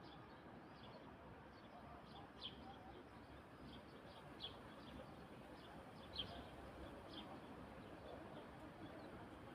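Faint, scattered short bird chirps, one every second or two, over a low steady background hiss of an evening outdoors.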